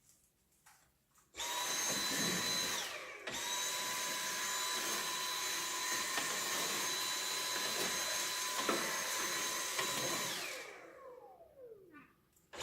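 A vacuum cleaner running with a high motor whine as it sucks up fireplace ash. It switches on, stops and restarts about two seconds later, then winds down with a falling pitch near the end.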